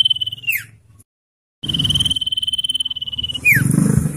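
Common iora calling: a long, rapidly pulsed trill held on one high pitch that ends in a quick downward slide, given twice with a short silent break between.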